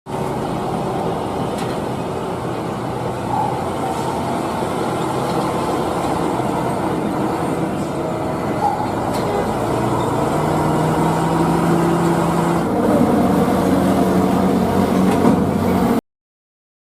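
Road traffic dominated by a heavy vehicle's engine running, over a steady wash of road noise; about ten seconds in, an engine note rises and holds higher. The sound cuts off suddenly near the end.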